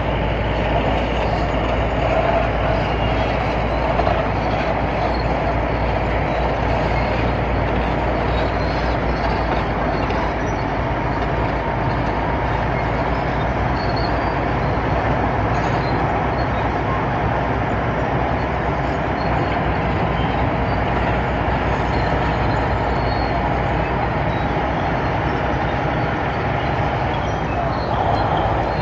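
Hitachi ZX200 excavator's diesel engine running steadily under working load, a continuous heavy mechanical rumble.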